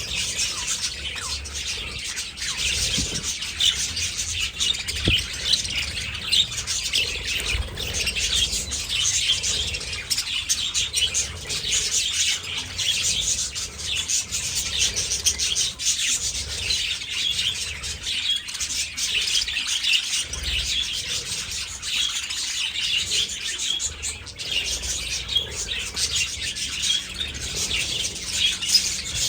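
A flock of budgerigars chirping and chattering continuously, many short calls overlapping.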